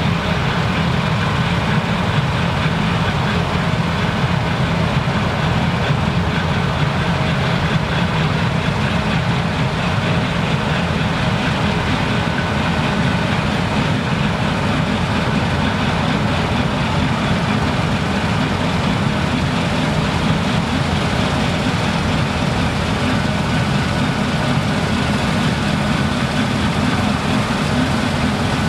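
New-generation Claas Lexion combine harvester running steadily while harvesting rye: a continuous heavy diesel engine and machinery drone with faint steady whines over it.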